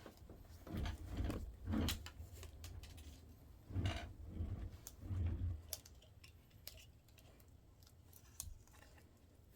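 Hand-handling sounds of small laptop parts: irregular clicks, taps and scrapes with a few soft thumps in the first half, then quieter scattered clicks, as a charging port is worked off a laptop board.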